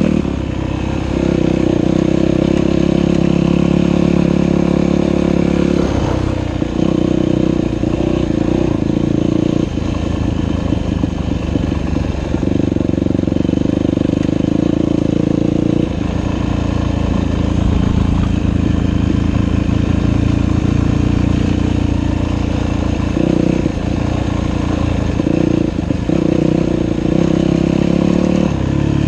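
Dirt bike engine running continuously, its pitch and loudness rising and falling every few seconds as the throttle and gears change.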